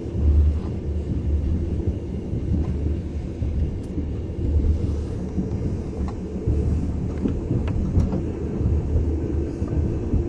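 Passenger train running, heard from inside the carriage: a steady low rumble that swells unevenly, with a few faint clicks.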